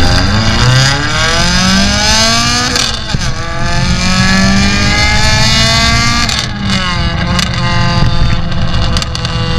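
Renault Clio 197's 2.0-litre four-cylinder engine through a Milltek de-cat exhaust, accelerating hard through the gears. The revs climb, drop at a gear change about three seconds in, climb again, drop at a second change about six seconds in, then hold fairly steady.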